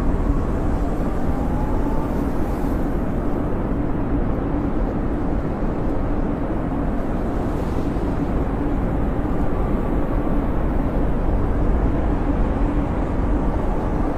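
Snowstorm wind blowing steadily, a dense low rumble with a faint whistle that rises and falls.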